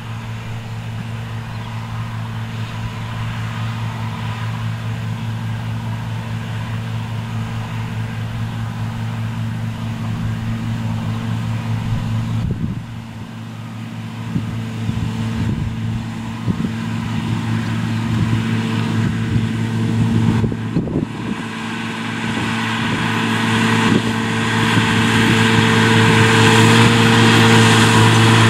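Claas Arion 650 tractor's six-cylinder diesel engine running at steady revs while mowing grass with a disc mower, growing louder as it comes closer, with a brief dip about twelve seconds in.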